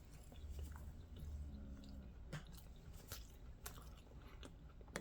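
Faint chewing of a bite of cold egg-white and vegetable egg bite, with soft mouth noises and a few small clicks.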